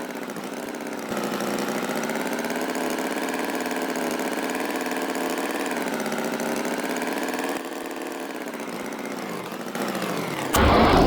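An engine running steadily, its pitch wavering slightly; it gets louder about a second in and drops back after about seven and a half seconds. A louder sound breaks in just before the end.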